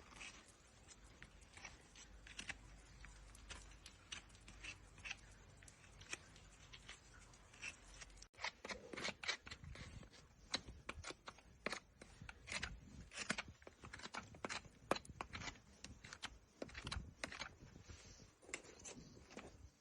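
Farrier's tools cutting and paring a horse's hoof: a run of short, crisp cutting and scraping strokes, coming more often and louder from about eight seconds in.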